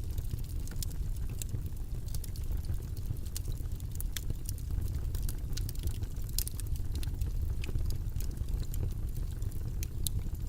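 Steady low rumbling white-noise track with many small, sharp clicks scattered irregularly through it.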